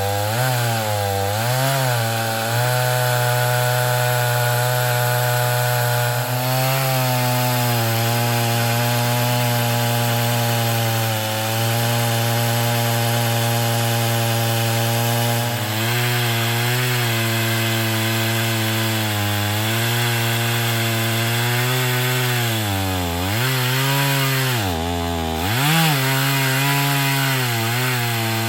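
Gas chainsaw on an Alaskan chainsaw mill, running at high revs as it rips a board lengthwise from a log. The engine note holds steady under load, sags and recovers briefly near the start, and bogs down deeply twice near the end before picking back up.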